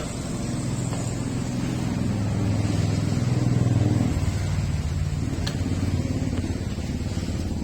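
Engine of a passing motor vehicle with a low steady hum, growing louder to a peak about halfway through and then fading.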